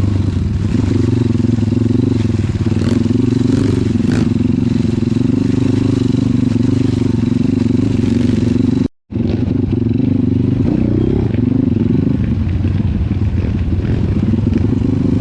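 Trail motorcycle engine running steadily, its pitch wavering slightly with the throttle, cut off by a momentary dropout about nine seconds in.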